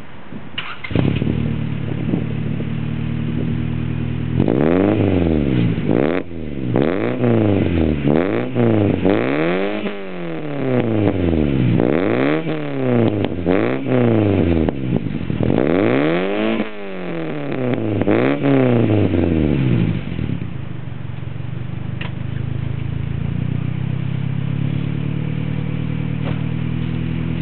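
Honda Civic engine through an Apexi N1 aftermarket exhaust, idling, then revved about a dozen times in quick succession, each rev rising and falling in pitch, before settling back to a steady idle.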